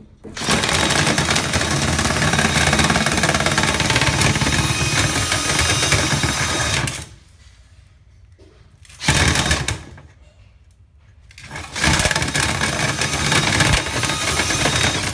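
Electric motor of dryer vent cleaning equipment running in three bursts: a long one of about seven seconds, a short one of about a second, then another of about three seconds near the end.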